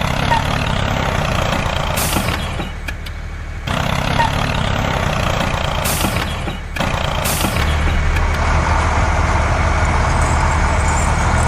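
A vehicle engine running steadily with a low hum, dropping away twice and giving a few short hisses.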